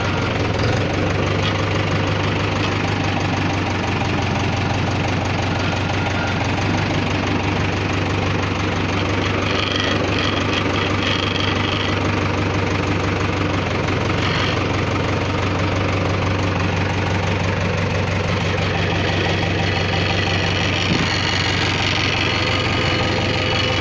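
Tractor engine idling steadily with an even, knocking beat.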